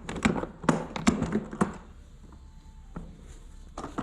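Sharp taps and knocks of a box and its contents being handled, many in the first second and a half, then a few scattered ones.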